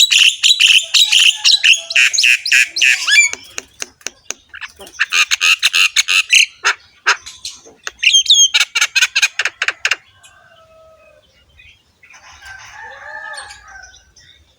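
Jalak kebo (Javan myna) singing in loud, rapid runs of harsh, rasping, chattering notes, three bursts of a few seconds each, with softer, lower calls near the end.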